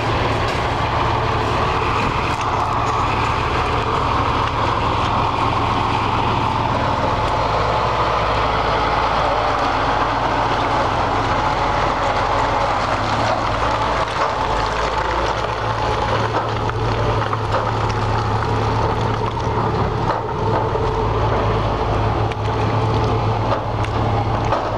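Engine of a military 6x6 'deuce and a half' truck running steadily with a low, even drone.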